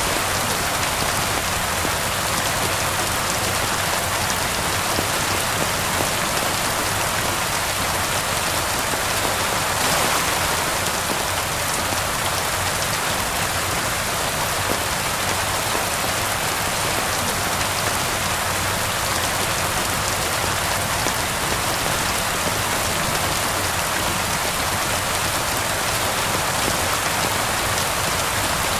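Steady rain falling, an even hiss with a slight swell about ten seconds in.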